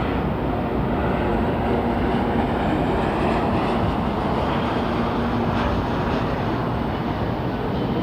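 N700A Shinkansen train pulling out of the platform: steady rumbling train noise with a low hum running under it.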